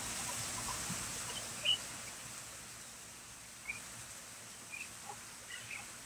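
Faint, scattered short bird chirps, about five or six high little calls spread over a few seconds, over a quiet outdoor hiss.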